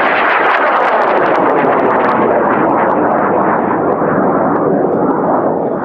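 High-power solid-fuel rocket motor firing at liftoff: a loud, steady rushing noise with a faint crackle, easing off slightly near the end as the rocket climbs away.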